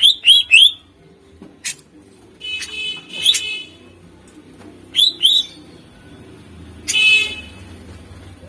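Cucak ijo (greater green leafbird) singing in loud separate phrases: three quick sharp rising whistled notes at the start and two more about five seconds in, broken by harsh buzzy chattering bursts.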